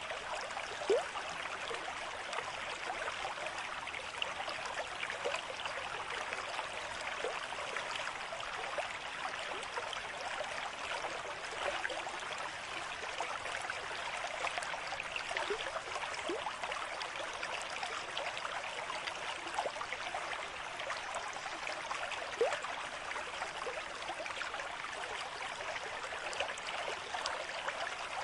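A small stream running steadily, water trickling and splashing, with two brief louder splashes, one about a second in and one near the end.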